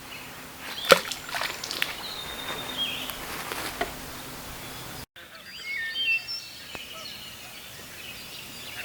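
A sharp knock about a second in, then rustling and light clicking with a few bird chirps; after a brief break, several birds sing and call with short whistled notes.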